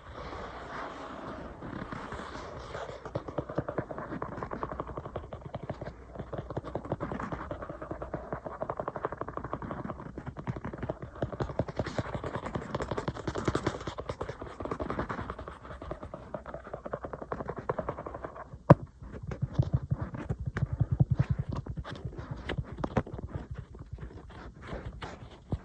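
Fingernails tapping and scratching on an iPad in fast, dense strokes. About two-thirds of the way through there is one sharp click, followed by a few seconds of duller, lower taps and then scattered sharp taps.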